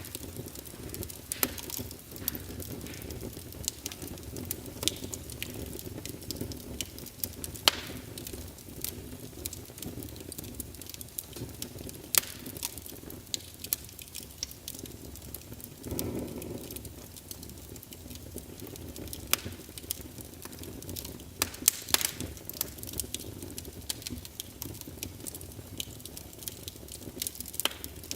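Small wood fire in a fireplace crackling: irregular sharp pops and snaps over a steady low rush of flames, with a brief swell a little past the middle.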